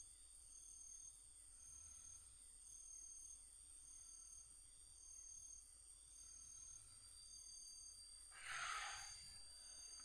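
Faint night insects, likely crickets: steady high-pitched trilling with one pulsing call repeating about once a second. A little after eight seconds comes a brief soft noise, louder than the insects.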